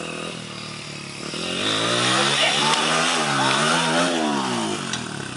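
Motorcycle engine being revved, its pitch rising and falling several times as the throttle is opened and closed.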